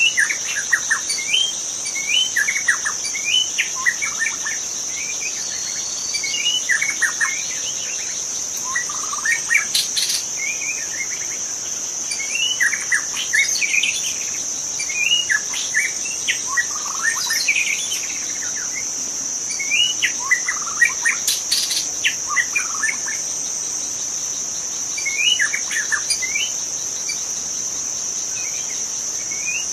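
White-rumped shama singing in short phrases of quick, varied whistled notes, with pauses of a second or two between phrases, over a steady high-pitched insect drone.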